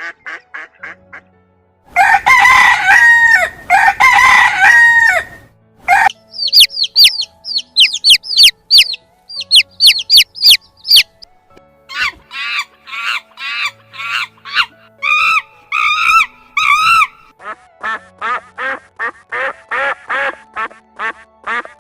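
Rooster crowing loudly twice, each crow long and held, followed by a series of rapid high-pitched chirps and then a run of shorter repeated bird calls.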